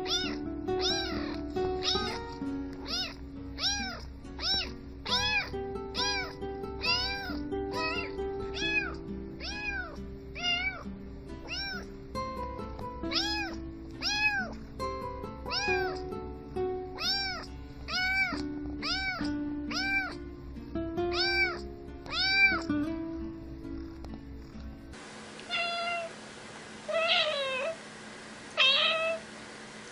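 Music with a beat and a cat's meow repeated in rhythm, one about every half second. About 25 seconds in it cuts to a cat meowing a few times on its own, without music.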